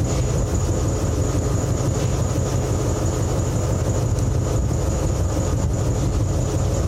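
Steady low rumble of an engine running without change, with a thin steady high tone above it.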